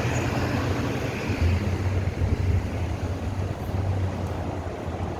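Low, steady engine rumble under wind buffeting the microphone.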